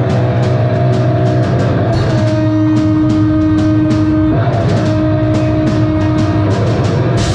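Metal band playing live and loud: distorted electric guitars over steady drumming with regular cymbal hits, with long held guitar notes about two seconds in and again past the middle.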